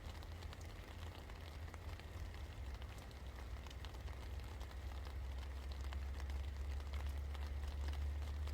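Steady rain falling, many individual drops ticking over an even hiss, on top of a constant low hum, growing slightly louder near the end.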